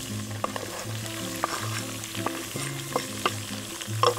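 Chopped onion and carrot sizzling as they are scraped off a wooden cutting board with a knife into duck pieces frying in oil and duck fat in a kazan over a campfire. The sizzling is dotted with sharp knife taps and crackles, with a louder knock about four seconds in. Background music plays underneath.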